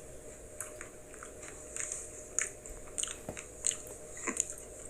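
Crunchy chewing of a Kit Kat Birthday Cake wafer bar: irregular small crunches and mouth clicks.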